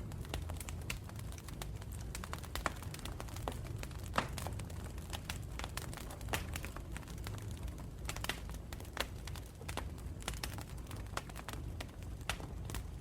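Wood campfire burning: irregular sharp pops and crackles, several a second, over a steady low rumble of the flames.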